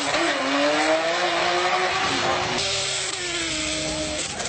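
A man imitating a car engine's highway pull with his mouth. The pitch climbs through the revs, drops about two seconds in like a gear change, climbs again and stops just before the end.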